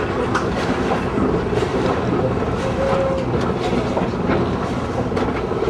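Narrow-gauge mountain railway train running steadily, with a continuous rumble and frequent clicks of wheels over the rails.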